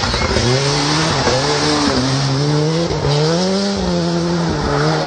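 Rally car engine revving hard, its pitch rising and falling several times, over a steady rushing noise from the tyres and car.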